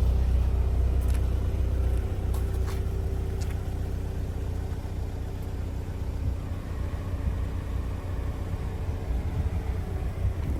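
Toyota MR2's engine idling steadily under a low rumble, with a few light clicks about one to three seconds in.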